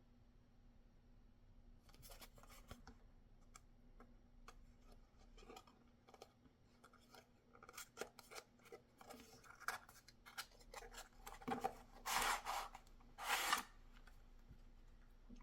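Hands handling and cutting open knife packaging: scattered small clicks, taps and scrapes that grow busier partway through. Near the end come two louder noisy cutting or tearing strokes, each about half a second long.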